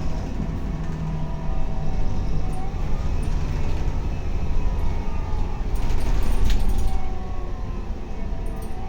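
Scania K280UB bus's diesel engine running with a steady low rumble, with a few short clicks about six seconds in.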